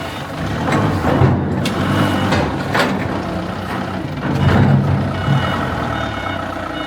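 Heavy machinery engine running with a low rumble that swells twice, with a reversing alarm beeping near the end and a couple of sharp metal clanks.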